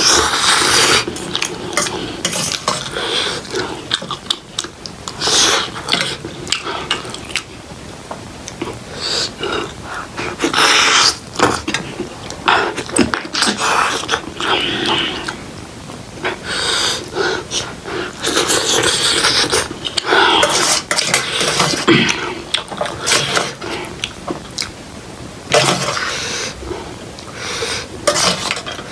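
Close-miked eating of ramen noodles: repeated slurps and chewing, with cutlery knocking and scraping against the dish.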